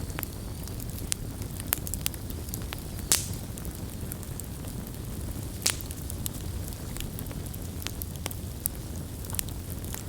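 Campfire crackling: a steady low rumble of burning with scattered sharp pops and snaps, the loudest pop about three seconds in and another a little before six seconds.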